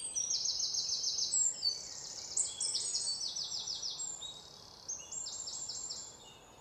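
Songbirds singing: a run of quick, high-pitched trills, each phrase about a second long, several overlapping one another, growing fainter in the last second or two.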